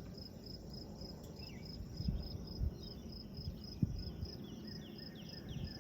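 Insect chirping steadily, a high pulsing note about three times a second, with faint short chirps and a few soft low thumps.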